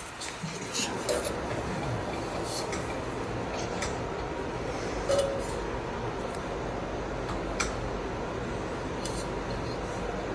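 A few faint, scattered clicks and clinks of small hard objects over a steady low background noise, the loudest about five seconds in.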